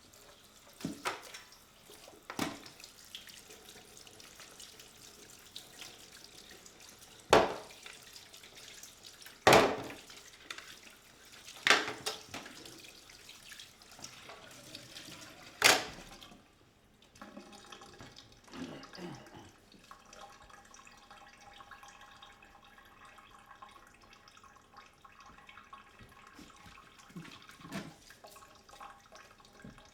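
Water running from a tap into a sink, with several sharp knocks over it, the loudest two coming about 7 and 9 seconds in; after about 16 seconds the knocks stop and only softer water sounds go on.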